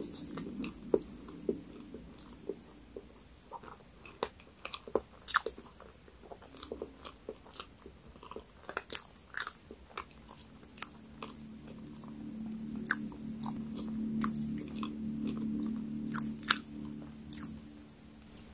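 Close-up mouth sounds of a person chewing cake with her lips closed: wet mouth clicks and smacks at irregular intervals. A low hum runs through the second half.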